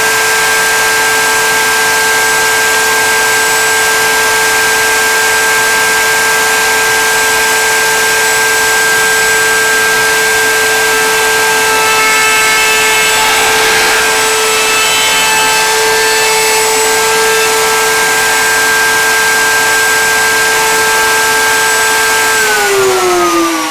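Electric router motor running at a steady high speed with a constant whine while routing the inside edges of a wooden cabinet pull. Near the end it is switched off and its pitch falls as it spins down.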